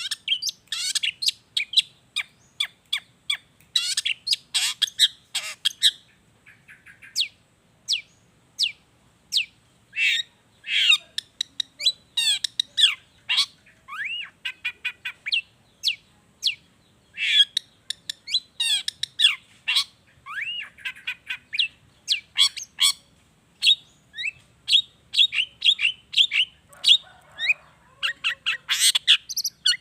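Long-tailed shrike (cendet) singing a fast, varied song of sharp chirps, trills and squawks, with mimicked calls of other wild birds worked into it.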